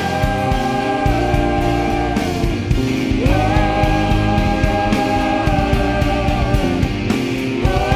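Worship band playing a rock song live: a full band with a dense low end under long held notes that swell in again about three seconds in.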